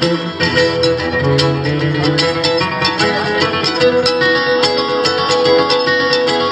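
Acoustic string band playing an instrumental passage live: rapid picked guitar and other plucked-string notes, with no singing.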